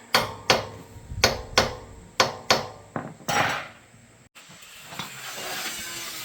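A hand hammer striking about seven sharp blows in uneven pairs, each with a short ring. After a brief silence near the end, a steady hiss follows.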